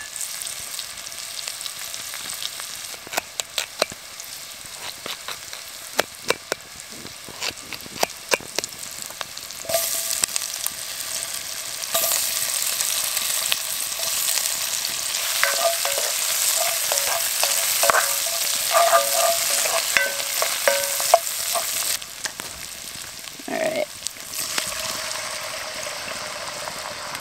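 Food frying in a cast iron Dutch oven over a campfire: a steady sizzle with scattered sharp clicks in the first several seconds. The sizzle gets louder about ten seconds in, once potato chunks have joined the onions in the hot oil, and drops back near the end.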